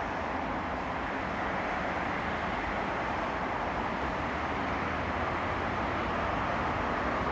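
Commuter train running into the station platform: a steady rushing rumble of wheels and motors that grows slowly louder.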